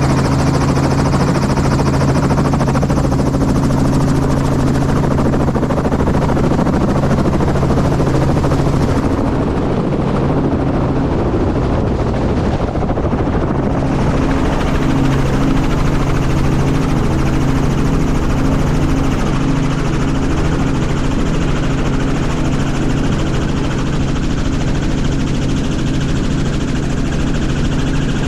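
Helicopter running steadily: a loud, even drone of rotor and turbine with a constant low hum. About ten seconds in, the hum blurs for a few seconds before settling again.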